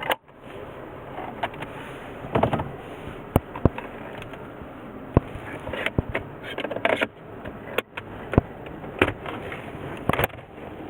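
Car interior fittings being handled: a series of sharp clicks and short scraping, rustling noises at irregular intervals over a steady hiss.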